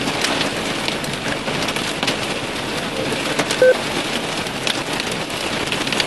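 Heavy wind-driven storm rain hissing steadily, with many sharp ticks of drops striking a hard surface. A brief tone sounds once a little past halfway.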